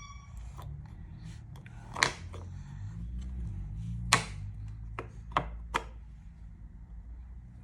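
Wooden puzzle pieces knocking and clicking against a wooden puzzle board, a handful of sharp knocks with the loudest about two and four seconds in.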